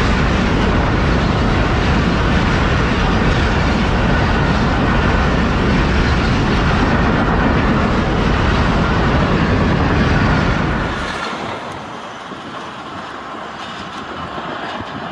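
Train passing close by: a steady, loud rumble and rattle of the carriages on the rails. It falls away sharply about eleven seconds in as the end of the train goes by, leaving a fainter, fading tail.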